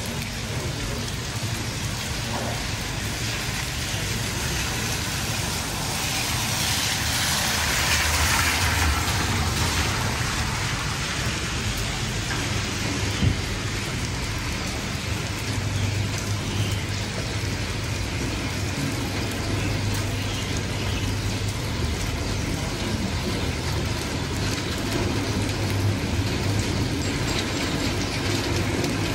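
Steady rain falling on a wet street, a continuous hiss that swells louder for a few seconds about a quarter of the way in. From about halfway, a low hum runs for some ten seconds while a shop's metal roller shutter is lowered.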